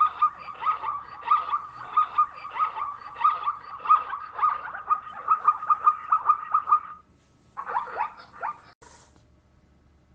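An animal giving quick, short, high calls that drop in pitch, about three a second, then after a short pause a brief burst of a few more calls.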